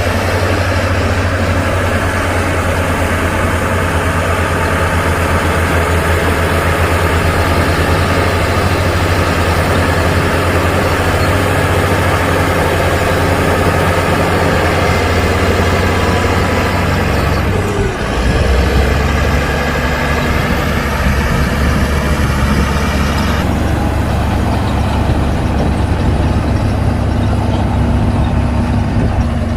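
Heavy diesel engines of earthmoving machinery, a bulldozer and dump truck working soil, running steadily and loud. The engine note shifts abruptly about 18 seconds in.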